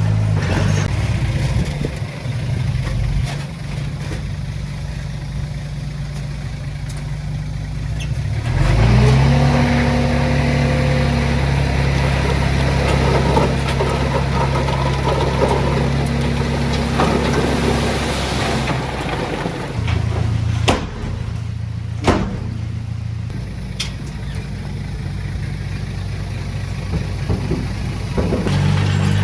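A heavy-equipment diesel engine running. It rises in pitch and load about a third of the way in and settles back about two-thirds through, with two sharp knocks shortly after.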